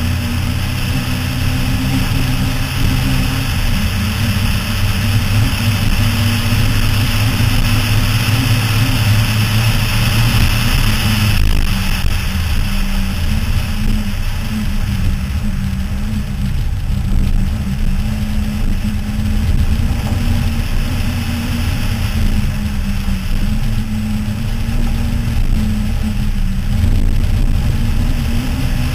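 Toyota Starlet rally car's engine running at high revs at stage speed on gravel, its note dipping and climbing a few times with gear changes and throttle, under a steady rush of road and wind noise.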